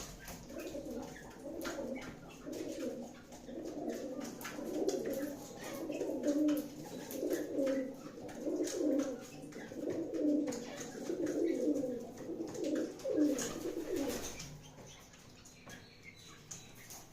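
Domestic Teddy pigeons cooing, a string of low coo phrases about one a second that stops about fourteen seconds in, with faint clicks in the background.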